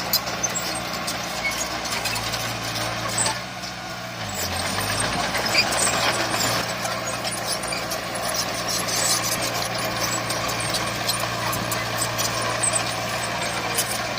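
Diesel engine of heavy earthmoving equipment running steadily, with scattered clanks and rattles. Its pitch shifts as it dips about four to five seconds in, then picks up again.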